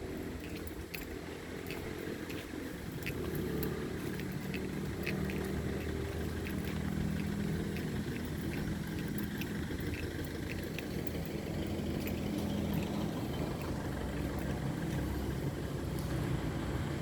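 A steady low rumble like a motor vehicle's engine running, with faint scattered ticks over it.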